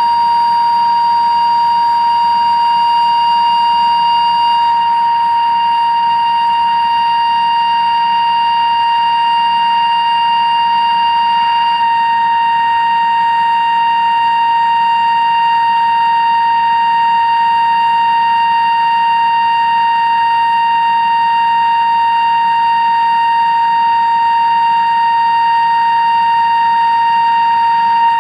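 CNC machine drilling 316 stainless steel with a 2-inch Kennametal drill: a loud, steady high-pitched whine held at one pitch, over a faint cutting hiss.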